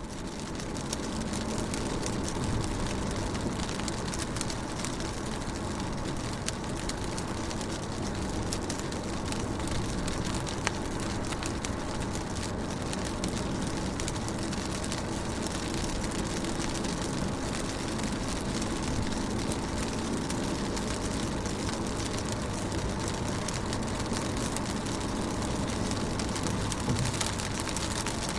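Steady rain on a car's windows and roof, heard from inside the car: a dense patter of small drop taps with a faint low hum underneath. It swells up in the first second, then holds even.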